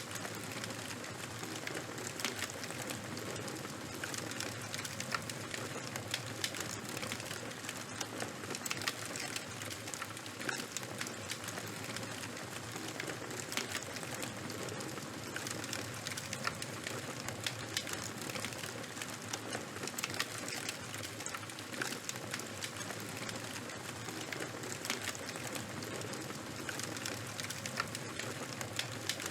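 Charcoal and bonfire burning: a steady hiss with many small, sharp crackles at irregular intervals.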